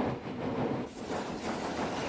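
A train running along the track, heard from aboard: an unpitched rumble of wheels on the rails, thinner for the first second with a dip in level, then fuller and steadier.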